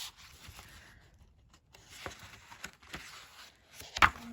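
Sheets of patterned paper being handled and leafed through, with light rustling and faint clicks, then one sharp tap about four seconds in.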